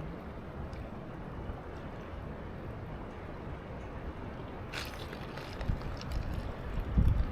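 River water running with a steady rush, mixed with wind rumbling on the microphone that gusts louder near the end. A brief hiss cuts through about five seconds in.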